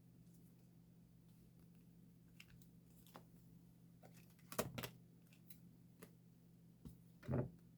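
Quiet handling of photocards and plastic sleeves: scattered small clicks and rustles, with two louder knocks a little past halfway and near the end, over a low steady hum.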